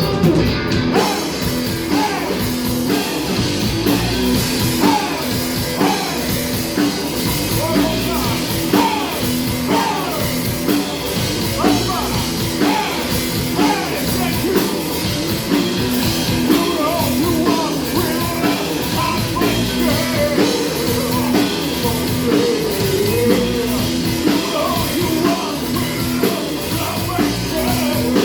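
Rock band playing live with a singer.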